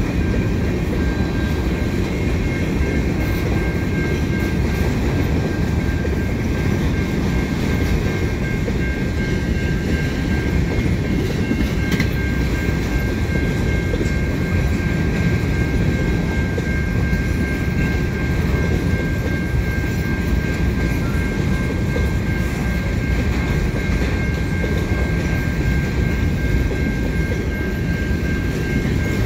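Freight train of hopper cars rolling past, a continuous steady rumble of wheels on rail, with two steady high-pitched tones running through it.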